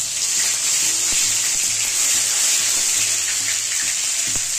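Tomato pieces sizzling steadily in hot oil in a steel kadai, with a light knock near the end.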